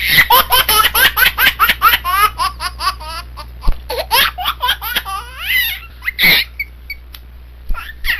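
A baby laughing in a run of quick, high-pitched bursts, fast at first, then slowing into fewer laughs, with one last longer laugh about six seconds in.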